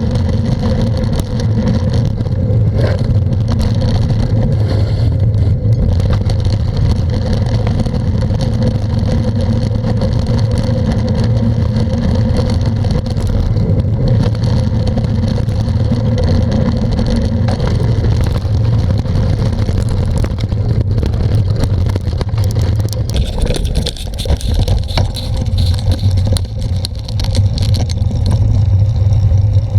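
Continuous loud rumble of wind and riding noise on the microphone of a camera carried along on a bicycle ride, growing more uneven near the end.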